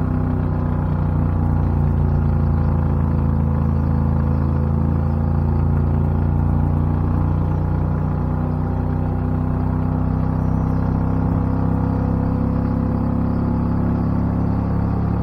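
Predator 670cc V-twin engine running hard under acceleration, heard from inside the car's cabin as a steady, deep drone whose pitch holds nearly level.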